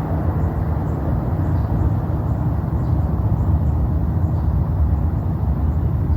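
SpaceX Falcon Heavy rocket's engines heard from far off during launch: a steady, deep rumble with no breaks.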